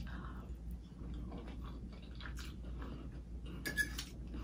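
A person chewing a mouthful of pepper steak with rice and vegetables: faint, irregular wet mouth sounds and small clicks, with a short run of sharper clicks near the end.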